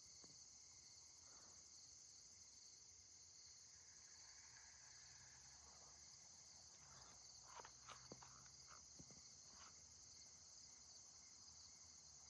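Faint night chorus of crickets chirping steadily. A few soft clicks about seven to nine seconds in.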